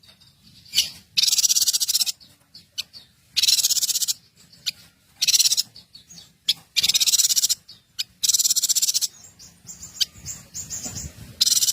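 Small songbird singing repeated rapid, high trills, each about a second long with short pauses between, and a few softer chirps near the end.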